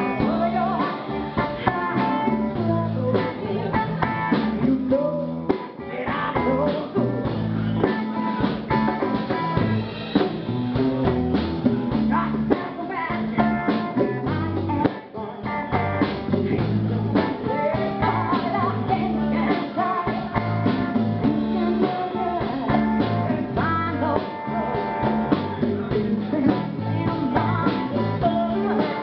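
Live band playing a blues-rock number: drum kit, bass and guitar, with singing. The music briefly drops back about halfway through.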